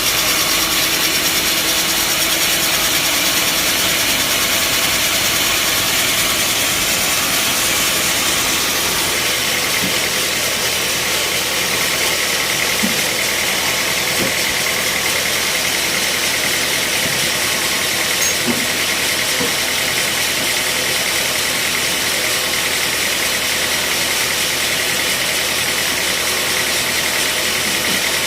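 Bandsaw sawmill running steadily. About eight seconds in its sound changes, the high hiss thinning and a steady high tone taking over.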